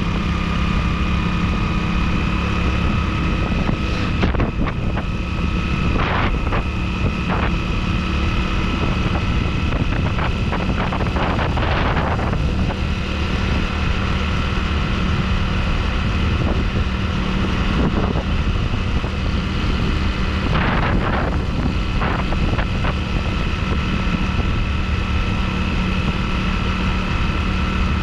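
Motorcycle engine running at a steady speed while riding, with wind on the microphone and a few brief knocks.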